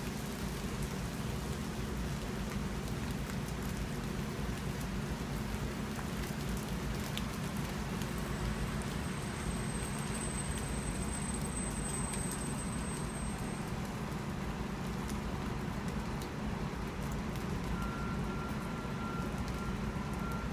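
Hail falling steadily, a dense patter of small ticks, over a low steady rumble.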